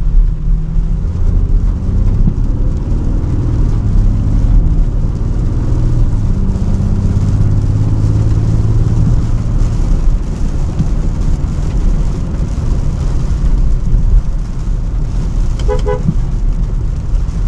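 Range Rover Sport driving in city traffic: a steady low engine and road rumble, the engine note stronger and rising over the first several seconds before settling. About a second before the end a vehicle horn gives a short toot.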